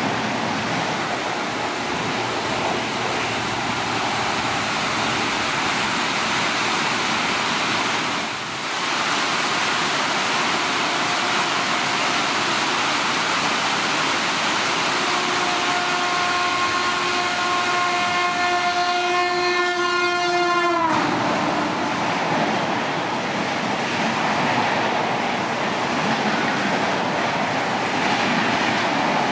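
Express train running through a station at speed in torrential rain, a steady rush of wheels and downpour. From about halfway a passenger locomotive's horn sounds one long multi-note blast that drops in pitch as the locomotive passes and cuts off; a shorter, fainter horn note comes a few seconds before it. The coaches then keep rushing past in the rain.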